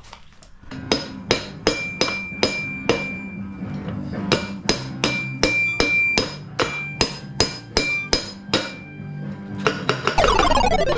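Hammer blows on metal, about two to three a second, some with a short metallic ring, knocking a wheel off its axle. Near the end a falling swoosh leads into music.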